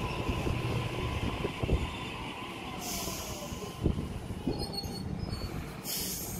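Double-deck electric passenger train rolling slowly along the platform as it brakes to a stop, with a faint falling whine and a steady rumble. Two sharp wheel clunks come about two seconds apart, and short high squeals or hisses come around the middle and near the end.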